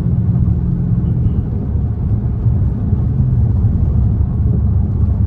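Straight-piped Dodge Charger Scat Pack's 392 (6.4-litre) HEMI V8 exhaust droning steadily while cruising, heard from inside the cabin: a deep, even rumble.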